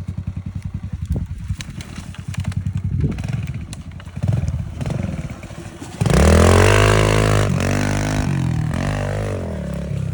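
Pit bike engine at low revs with a steady chugging beat, then revving up and down; about six seconds in it gets suddenly loud and close, revving hard, before easing off toward the end.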